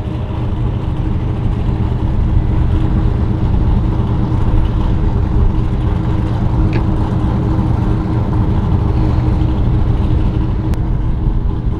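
An engine running steadily at a low, even hum.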